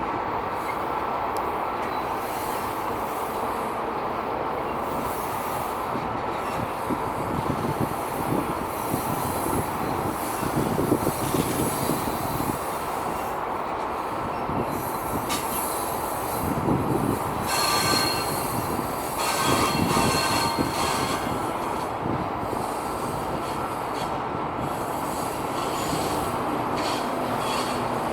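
Steady vehicle rumble that swells twice, with a high metallic squeal about two-thirds of the way through.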